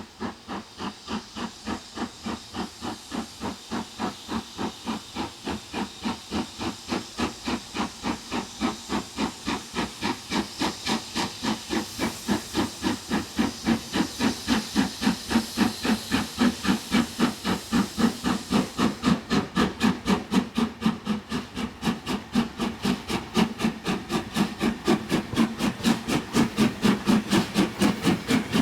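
LMS Jubilee class 4-6-0 No. 45690 Leander working hard uphill. Its three-cylinder exhaust beat comes as an even, rapid chuffing of about three to four beats a second with a deep roar beneath it, growing steadily louder as the locomotive approaches.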